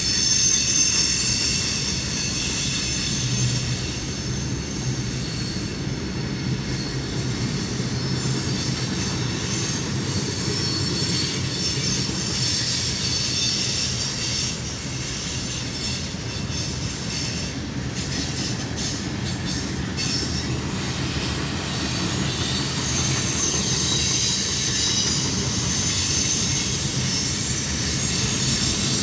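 Freight train cars rolling past: a steady rumble of wheels on the rails with high-pitched wheel squeal ringing over it the whole time.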